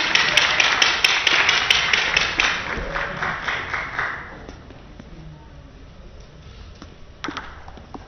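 Spectators in a table tennis hall clapping in rhythm, about three claps a second, with cheering. It dies away over about four seconds to quiet hall noise, and one sharp knock comes near the end.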